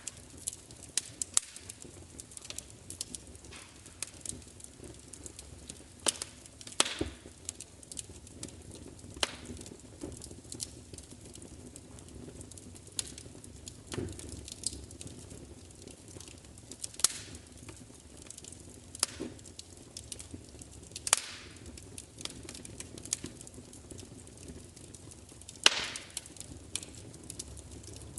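Wood fire crackling: a steady low hiss and rumble with irregular sharp pops and snaps, a few of them louder.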